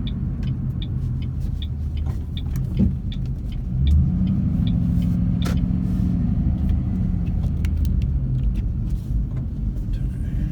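2007 Ford Mustang GT's 4.6-litre V8 running as the car is driven, a steady low engine rumble mixed with road and wind noise through open windows. The engine note grows louder about four seconds in and holds for a few seconds.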